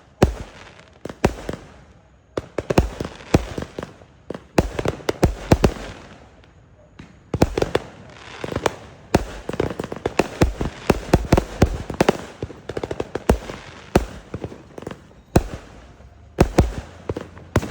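Fireworks going off in quick succession: a long string of sharp bangs and crackles, thickest in a rapid run through the middle.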